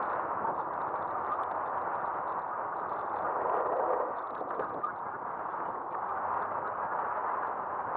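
Steady rushing noise of an electric bike riding on pavement, wind and tyre noise picked up by a camera mounted on the bike's front end, with faint ticks and rattles.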